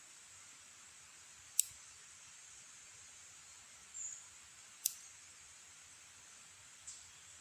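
Three sharp, isolated clicks spaced a couple of seconds apart over a faint steady hiss, with a brief high chirp shortly before the second click.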